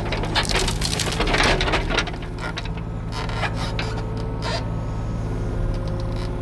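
Excavator diesel engine running steadily, with brush and branches crackling and snapping in a cluster during the first two seconds as the machine tears into the overgrowth.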